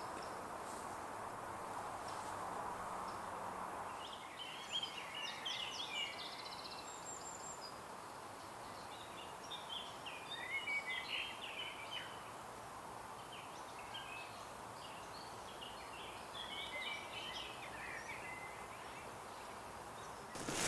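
A songbird singing three bursts of quick, warbling phrases over a steady outdoor hiss.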